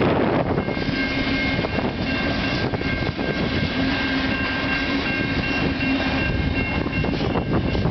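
Freight train cars rolling past at close range, a steady rumble of wheels on rail with a few faint steady whining tones above it.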